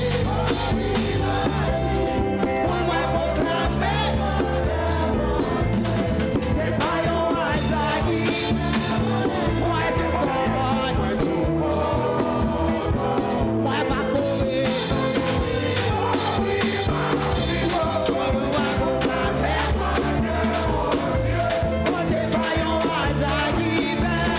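Church band playing upbeat music with drum kit and bass, with singing, steady and loud throughout.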